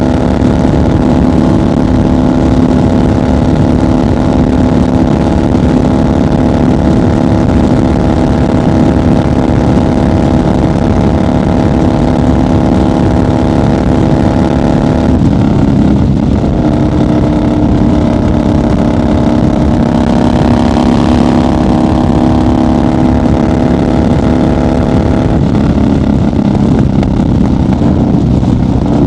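1990 Harley-Davidson FXR's Evolution V-twin engine running steadily at highway cruising speed, with the rush of wind underneath. The engine note changes about halfway through and again near the end.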